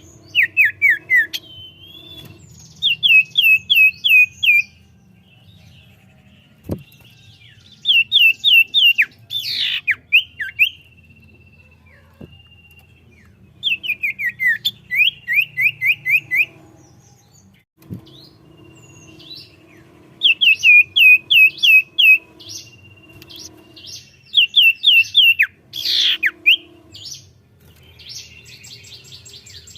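Common iora (cipoh) singing loudly and continuously in repeated phrases of rapid, downward-sweeping whistled notes, several in quick succession, with short pauses between phrases. Two faint clicks fall about a third of the way in and past the middle.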